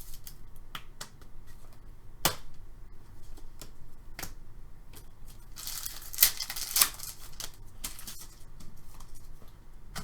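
Trading card packs and cards being handled: scattered sharp clicks and taps, with a rustling tear of pack wrapper a little past the middle.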